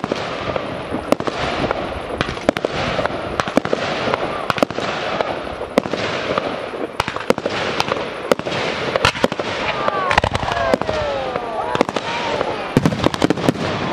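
Fireworks display: many sharp bangs of bursting shells in quick succession over a continuous crackling hiss of sparks.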